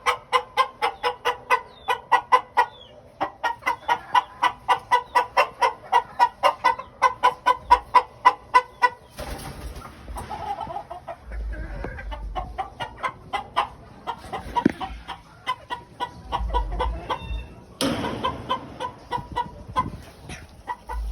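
Domestic game fowl calling: a fast, even run of repeated clucking calls for about the first half, then scattered, more varied calls over a low rumble.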